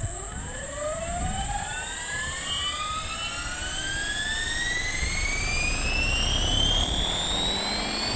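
Synergy 516 electric RC helicopter spooling up after throttle hold is switched off: the motor and rotor whine climbs slowly and steadily in pitch as the head speed builds, with a steady high tone above it.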